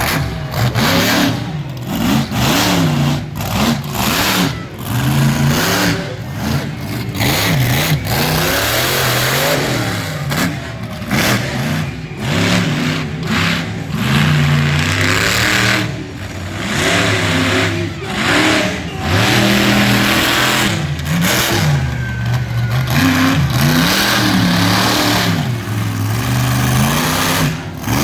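Monster truck engine revved hard over and over, its pitch climbing and dropping every second or two with short lulls between bursts of throttle.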